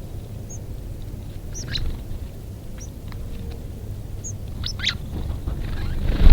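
White-crowned sparrows giving short, high chip calls, a few at a time scattered over several seconds, over a steady low rumble. A loud low thump comes at the very end.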